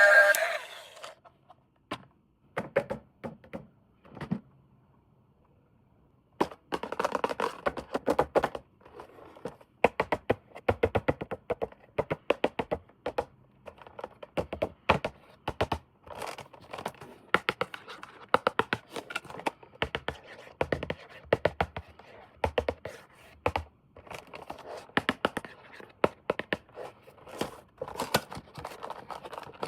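Toy packaging and plastic parts handled up close: scattered clicks, then from about six seconds in a dense run of scratching, crinkling and light plastic knocks.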